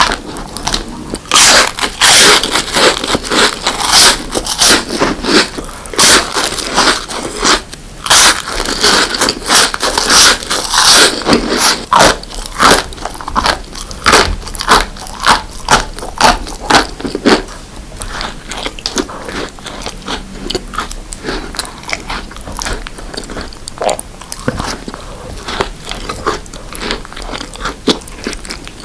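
Close-miked eating: crunchy bites and loud chewing of sweet desserts such as chocolate and cake, dense crackly crunches in the first half, settling into softer, smaller chewing towards the end.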